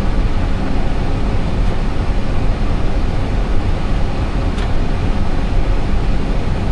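Steady low rumble of an Airbus A320 cockpit while the airliner taxis, with engine and airflow noise and no let-up. A faint click comes about four and a half seconds in.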